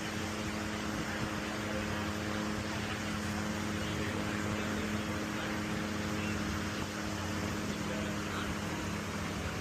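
A steady low machine hum over a constant rushing noise, with no clear starts or stops.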